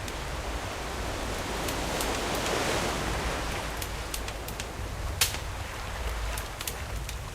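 Campfire crackling with sharp pops, the loudest about five seconds in, over surf; a wave swells and washes in, loudest around two to three seconds in.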